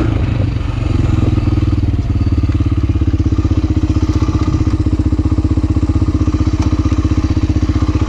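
Motorcycle engine running, then settling to a steady idle about two seconds in, its exhaust pulsing evenly.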